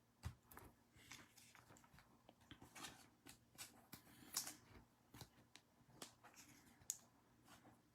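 Faint rustling and soft clicks of Topps Chrome baseball cards being handled and flipped through by hand, in quick irregular taps.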